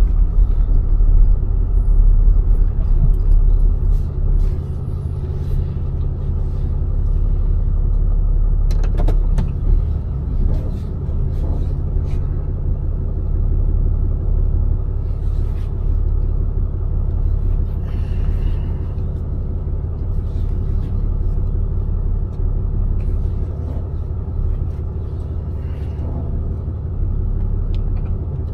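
Tow truck engine running with a steady low rumble, with a few faint clicks and knocks over it.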